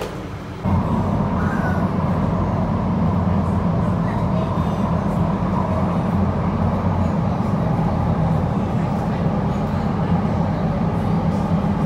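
Marmaray commuter train running, heard from inside the carriage: a loud, steady rumble with a low hum and a thin steady tone above it. It cuts in abruptly less than a second in, over quieter station sound.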